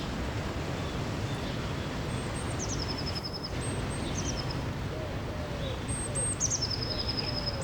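Birds singing over the steady rush of a river or waterfall. A high song phrase that drops into a short trill repeats about three times, with a few soft, low, arching notes in the second half.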